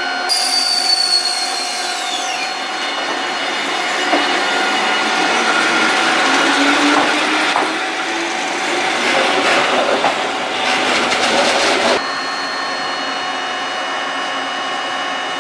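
Eizan Railway electric train at a station platform: a falling whine in the first two seconds, then louder rumbling and screeching from about 4 to 12 s. At about 12 s it cuts abruptly to a steadier, quieter hum.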